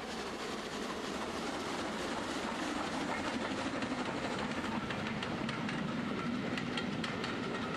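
A train running along the rails, a steady running noise with the wheels clicking over the rail joints, the clicks coming thick and fast in the second half.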